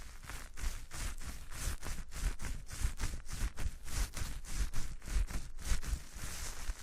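Rapid, irregular rubbing and scratching strokes right against a microphone, several a second, with low thumps underneath, typical of a close-up ASMR scrubbing trigger.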